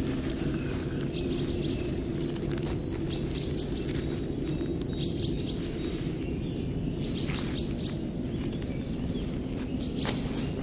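A songbird repeating a short, high chirping phrase about every two seconds, over a steady low background hum.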